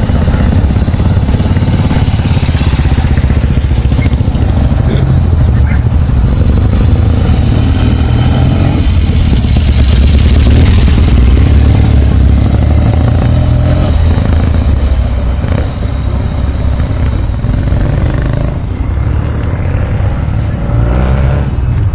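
Motorcycle engine running with a heavy low rumble, loudest around the middle and easing off in the last few seconds.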